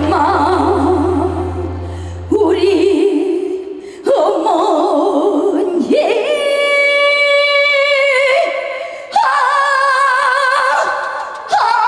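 A woman singing a trot song live with backing music: a run of long held notes, each about two seconds, with wide vibrato, several of them sliding up into pitch. A low sustained backing tone drops out about three seconds in.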